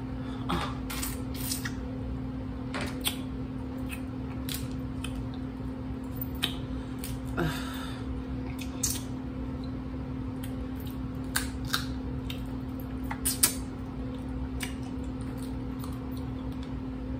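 Snow crab leg shells being cracked and pulled apart by hand, with irregular sharp snaps and clicks and wet chewing between them. A steady low hum runs underneath.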